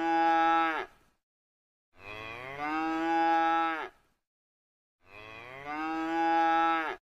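A cow mooing: the end of one moo, then two more full moos about three seconds apart, each about two seconds long, holding a steady pitch and dropping off at the end.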